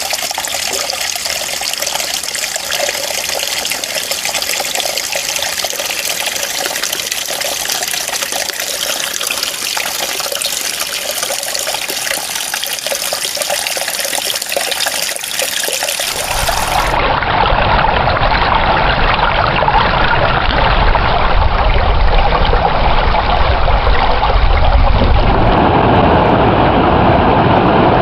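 Running water: a steady hissing trickle and splash that switches abruptly a little past halfway to a fuller, deeper and louder rush of flowing water.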